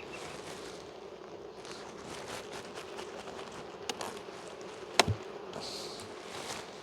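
Honey bees buzzing in a steady hum from a crowded, opened hive. A sharp click about five seconds in is the loudest moment.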